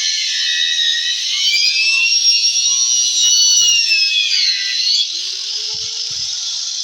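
High-pitched whine of a small power tool cutting. Its pitch sags and recovers over a second or two as the load changes, and a lower tone rises briefly near the end.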